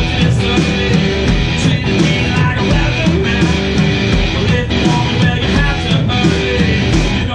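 Live rock band playing, with distorted electric guitar and drum kit over bass and regular drum hits.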